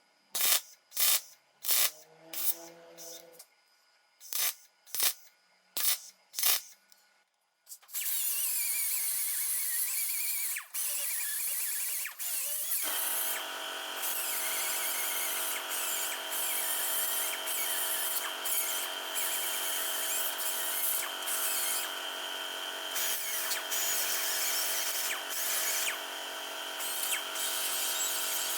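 A run of about nine sharp taps and clicks. Then an electric power tool starts up about eight seconds in and runs steadily. A high, even whine joins it about five seconds later.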